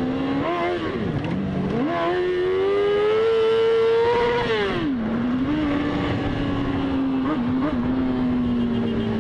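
Motorcycle engine under acceleration: its pitch climbs slowly for about three seconds, falls back sharply, then holds steady with a couple of brief blips of the throttle.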